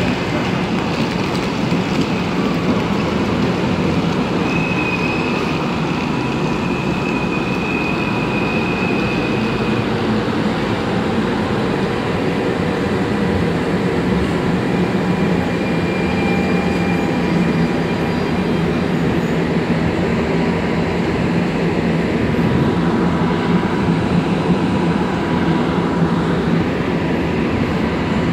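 Electric train running through the station: a steady rumble of wheels on rail, with a high wheel squeal held for several seconds about five seconds in.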